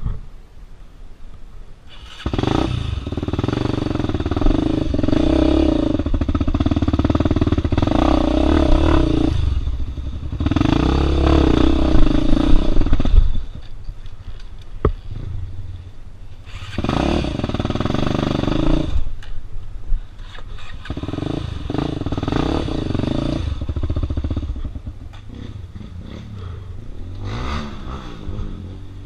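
Off-road enduro motorcycle engine revving hard in repeated bursts of throttle on a steep rocky climb, the pitch rising and falling with each burst. It runs lower between bursts, with a long stretch of heavy revving about two seconds in and shorter bursts later on.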